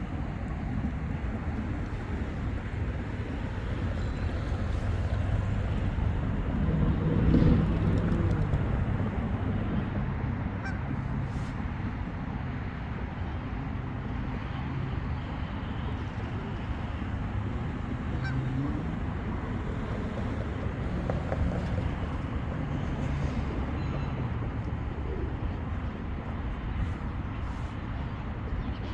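Geese honking now and then over a steady low rumble, which swells briefly about seven seconds in.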